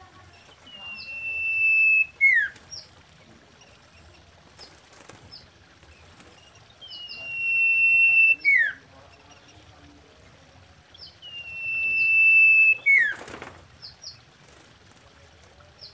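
Common iora singing its whistled song three times. Each phrase is a long, steady whistle that grows louder for about a second, then drops in a quick falling note, with short high notes around it. A brief rustling noise comes just after the third phrase.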